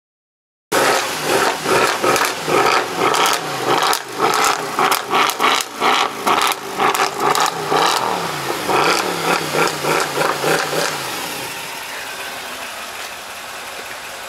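Mercedes-Benz C63 AMG's V8 revved in quick repeated blips while stationary, the pitch rising and falling with each, then settling into a steady idle about eleven seconds in.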